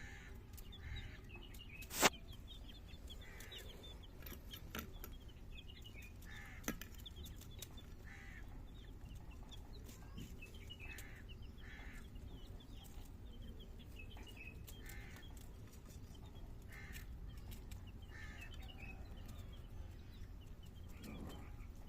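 Chickens clucking at intervals, with many high chirps and a sharp click about two seconds in, over a steady low rumble.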